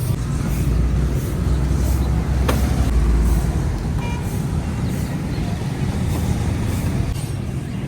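Street traffic: a steady low engine rumble from passing vehicles, heaviest about two to three seconds in, with one sharp click partway through.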